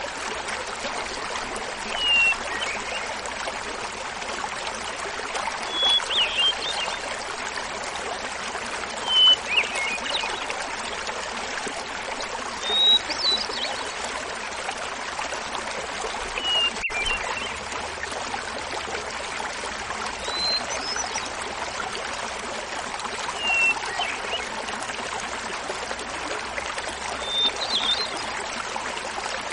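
Small waterfall babbling steadily. Over it a hermit thrush sings a short flute-like phrase every three to four seconds, about eight times; each phrase opens on a held note and comes at a different pitch.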